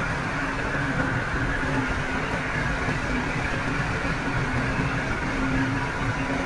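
Heavy diesel earthmoving machinery running steadily: a constant low engine drone with a faint steady whine above it.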